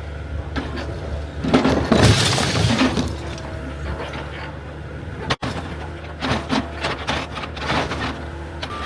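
Excavator demolishing a building: its diesel engine runs steadily under crashes of breaking debris, loudest about two seconds in and again from about six to eight seconds.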